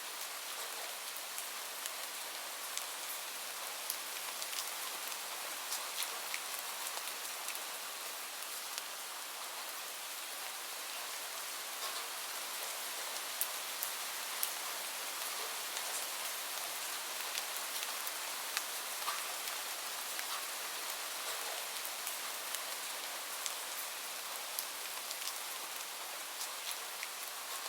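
Steady rain falling, an even hiss with many separate drops ticking on a hard surface.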